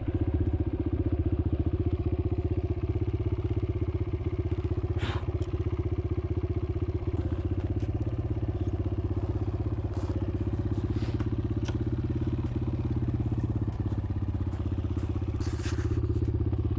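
Kawasaki KLX140L dirt bike's small single-cylinder four-stroke engine running steadily at low, even revs, with a few brief sharp ticks or clicks over it.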